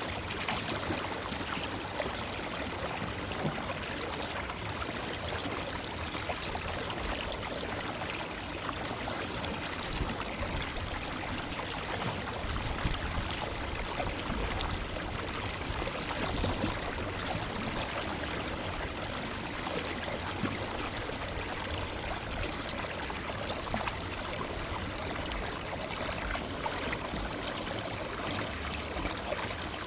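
Forest river flowing steadily, a continuous rush of water with small splashes and gurgles over rocks.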